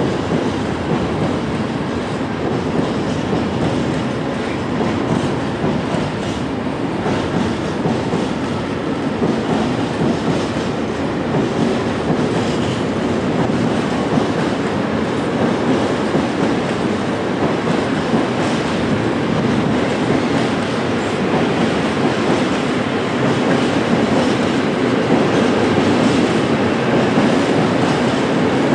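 Freight train of loaded open coal wagons rolling past close by, its steel wheels running steadily over the rails, growing a little louder near the end.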